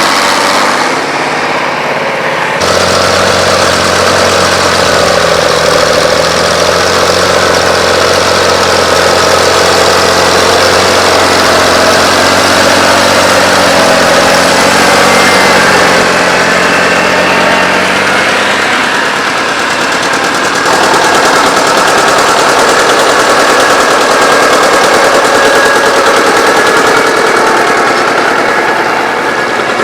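Antique farm tractor engines running.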